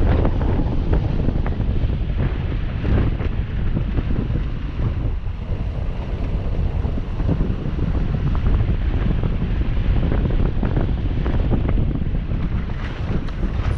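Heavy wind buffeting the microphone: a loud, gusty low rumble with irregular crackles.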